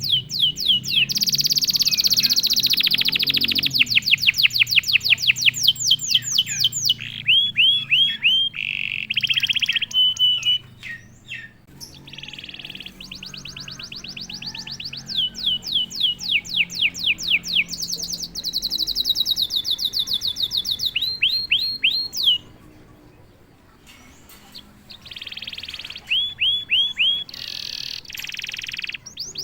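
Canary singing: long rolling trills of rapidly repeated downward-sweeping notes at several different speeds, in phrases broken by short pauses, with one brief near-silent gap about two-thirds of the way through.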